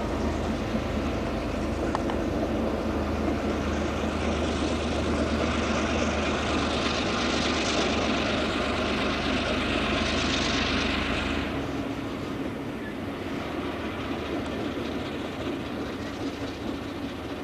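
A diesel train passing on the rails: a steady low engine drone with rumble and rail noise that is loudest midway and drops away about twelve seconds in.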